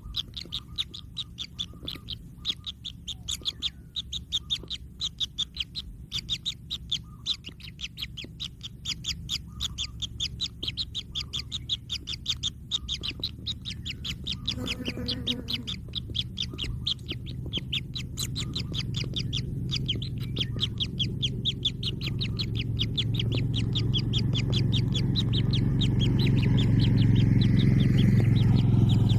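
Kingfisher chicks calling in a fast, steady series of short high chirps, several a second, the noisy begging of hungry nestlings. Under them a low hum grows steadily louder through the second half.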